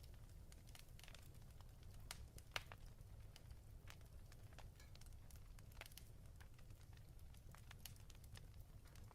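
Wood fire crackling faintly in a fireplace: irregular small pops and snaps, one sharper pop about two and a half seconds in, over a steady low rumble.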